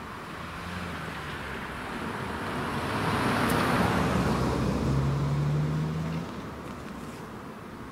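A motor vehicle driving past, getting louder and then fading. Its engine note steps up in pitch about five seconds in, and the sound drops away sharply about a second later.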